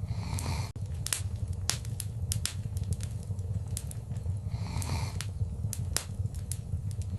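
Wood fire crackling in a fireplace: frequent, irregular sharp pops and snaps over a steady low rumble, with two short hissing swells, one near the start and one about five seconds in.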